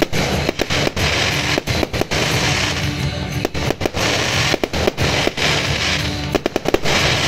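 Aerial fireworks bursting: a run of sharp bangs and crackles that comes thick and fast near the end, over music playing throughout.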